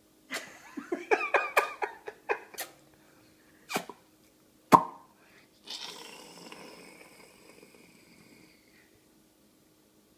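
A baby's short, high-pitched squeals and cries during eating, with a sharp knock near the middle and a drawn-out vocal sound that fades away.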